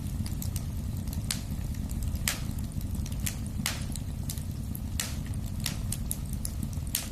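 Wood fire in a fireplace crackling, with sharp pops about once a second over a steady low rumble of the flames.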